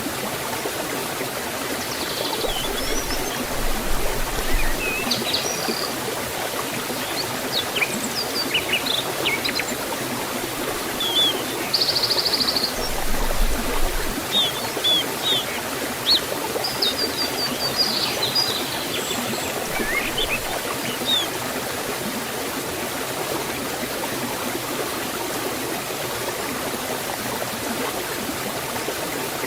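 Forest waterfall water rushing in a steady, even hiss. Small birds chirp and trill over it through the first two-thirds, including one fast trill about twelve seconds in.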